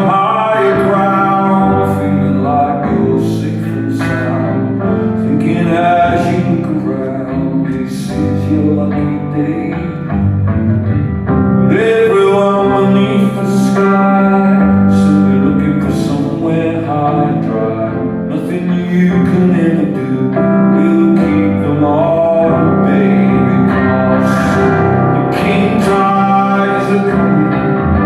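Live song with a strummed guitar and singing.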